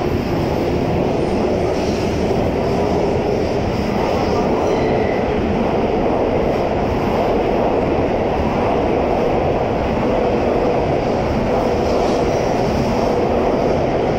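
N700a-series Shinkansen train departing the platform, its cars rolling past with a loud, steady rumble.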